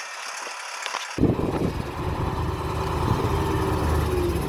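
A vehicle engine idling steadily, low and even, coming in suddenly about a second in after a faint hiss with a few small clicks.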